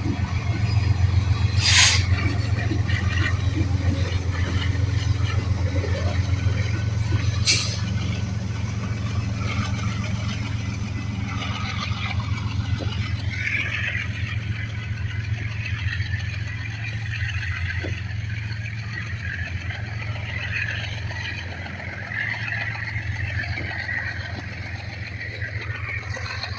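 Freight train cars rolling past: a steady low rumble with fast rhythmic wheel clatter and a hiss above it. Two sharp metallic bangs about two seconds in and near eight seconds.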